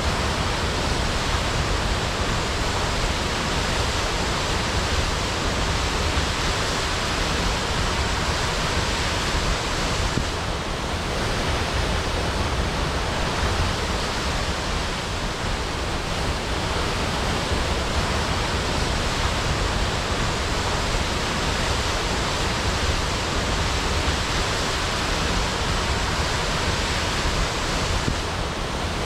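Waterfall crashing: a steady, full rush of falling water.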